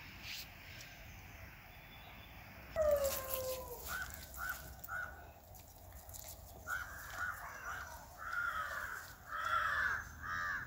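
A bird cawing repeatedly in short calls, starting about three seconds in after a single falling call.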